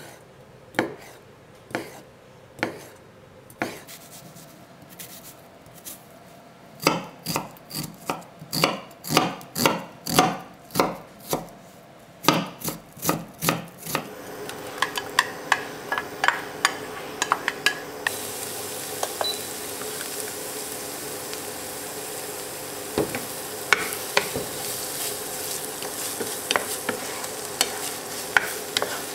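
A kitchen knife chopping on a cutting board, slow strokes at first and then a quicker run of chops. About halfway through, food starts sizzling in a frying pan, the sizzle growing louder a few seconds later, with occasional light clicks of a utensil stirring.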